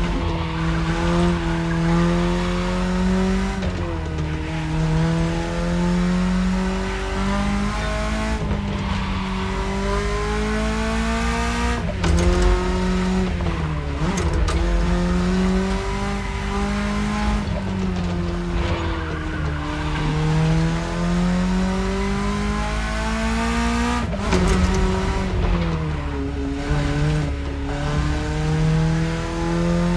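BMW E30 engine pulling hard through the gears. The revs climb steadily and then fall sharply at each gear change, about six times.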